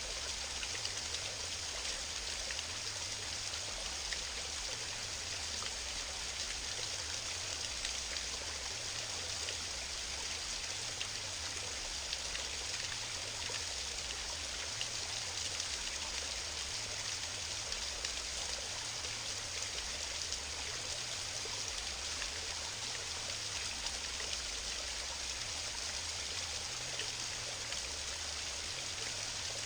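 Small mountain waterfall and stream: water falling and rushing over rocks in a steady, even splash and hiss.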